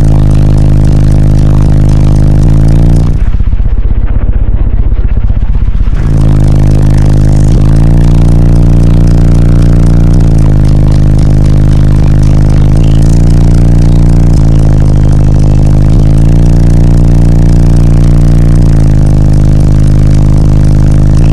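Bass-heavy music blasting very loud through a car audio system of six 12-inch subwoofers, with deep sustained bass notes that change pitch every couple of seconds. About three seconds in, the notes give way to a low pulsing for a few seconds before the bass line returns.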